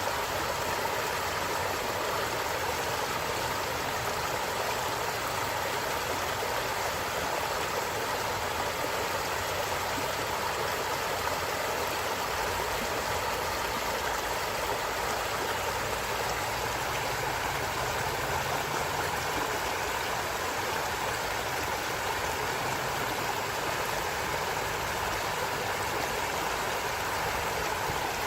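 Stream water flowing and gurgling in a steady, unbroken rush.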